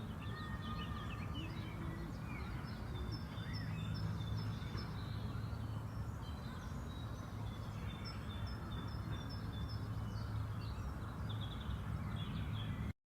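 Spring park ambience: several small songbirds chirping and singing, with runs of short repeated high notes, over a steady low background rumble. The sound cuts off abruptly near the end.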